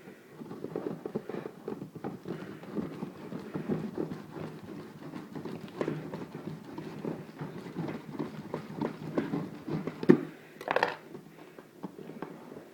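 Cardboard box being worked open with a knife and hands: irregular knocking, scraping and rustling of cardboard and packing, with one louder, harsher noise about ten seconds in.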